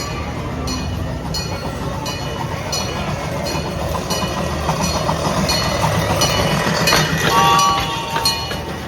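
Gas-powered miniature replica steam train running along its track: a steady rumble with wheel clicks at a regular rhythm, and a brief high squeal about seven seconds in.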